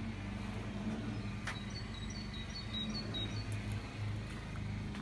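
A car engine idling, a steady low hum. There is a single sharp click about a second and a half in, and a few faint high chirps in the middle.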